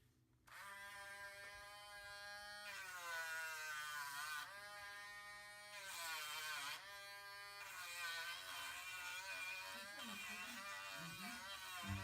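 Small electric rotary tool running at high speed while smoothing down a ridge on a wooden rifle stock's grip, its buzzing pitch sagging several times as it is pressed into the wood.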